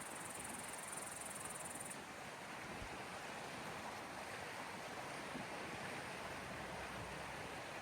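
Waves on the Gulf of Finland shore, a steady even wash of water. A high, steady buzz stops about two seconds in.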